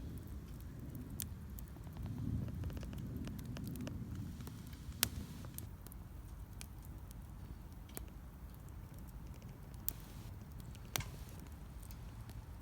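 Wood fire burning in a Solo Stove Campfire, a low steady rumble with scattered sharp crackles and pops, the loudest about five seconds in and again near eleven.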